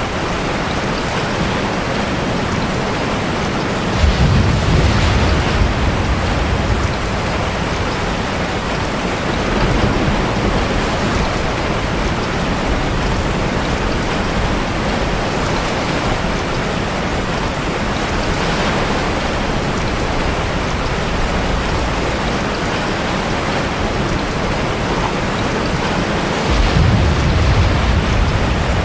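Steady, heavy rain hiss mixed with surf, with two deep low rumbles swelling up about four seconds in and again near the end.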